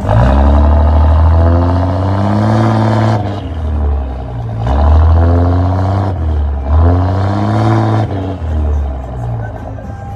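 2006 Cummins 5.9-litre inline-six turbo-diesel, fitted with 60% over S&S fuel injectors, being revved about three times. Each time the pitch rises and then drops back toward idle, and it settles back to idle near the end.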